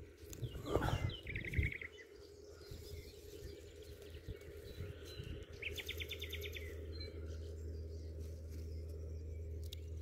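A small bird singing two short rapid trills, one about a second in and another about six seconds in. Rustling and handling of grass come in the first two seconds, and a steady low rumble comes in from about halfway.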